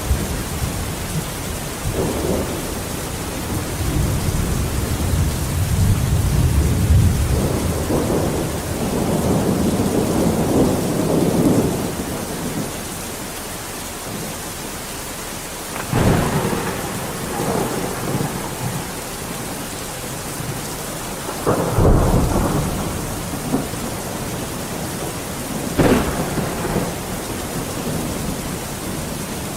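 Steady heavy rain with thunder: a long low rolling rumble through the first twelve seconds, then three sharp cracks of thunder, at about 16, 22 and 26 seconds, each fading off.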